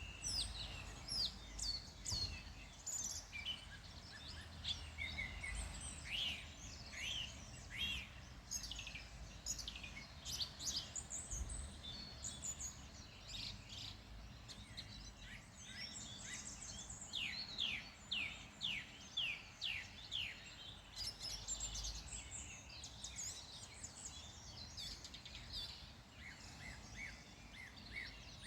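Several songbirds calling and singing, in quick runs of short notes that sweep downward, over a low rumble.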